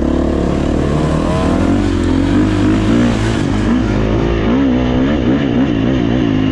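Dirt bike engine running under way, its pitch rising and falling quickly as the throttle is worked on and off.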